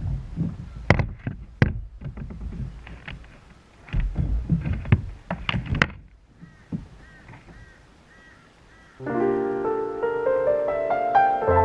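Irregular knocks and clicks over a low rumble, with faint short bird calls, then soft piano music starts about nine seconds in.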